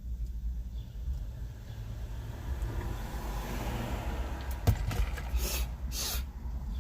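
Motor vehicle sound: a steady low rumble, with a swell of noise that rises and fades over a couple of seconds midway. A click and two short hisses follow near the end.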